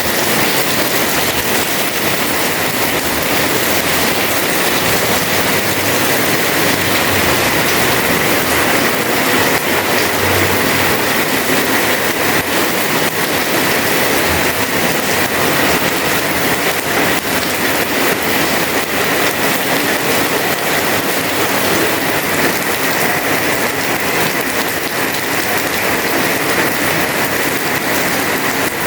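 Heavy rain pouring steadily onto a house terrace: a loud, unbroken hiss of falling water.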